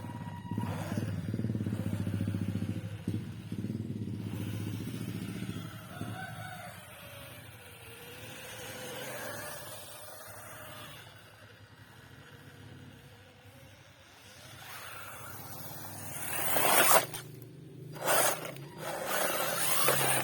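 RC drift car running, its motor pitch rising and falling, with two loud bursts of hissing noise near the end.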